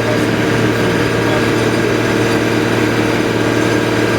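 An engine running steadily at a constant speed, a loud, even hum with no change in pitch.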